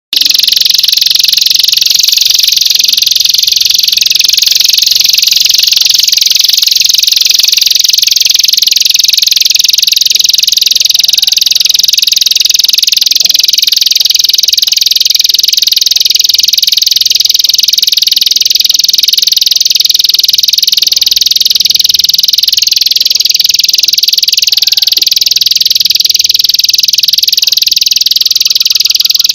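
Loud, unbroken high-pitched trilling chorus that starts abruptly and holds steady: a recorded animal-sound track played as masteran to tutor songbirds.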